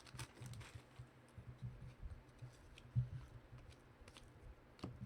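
Trading cards being handled and flipped through, faint scattered clicks and light rustles over a low steady hum.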